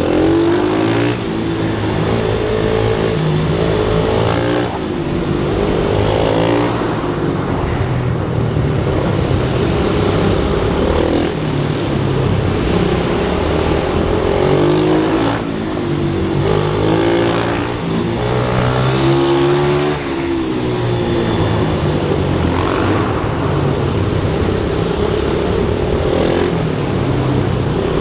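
Small pit bike engine ridden hard: its pitch climbs again and again as it accelerates through the gears, with a few brief drops in between where the rider shifts or backs off.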